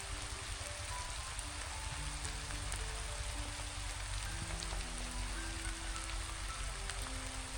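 Steady rain hissing, with soft background music of slow held notes over it.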